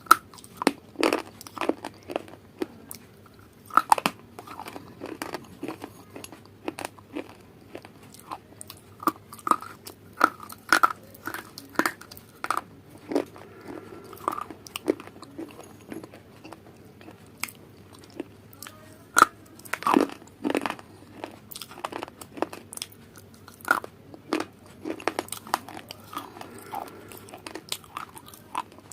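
A person biting and chewing crunchy food: irregular sharp crunches, several a second at times, with short pauses between bites.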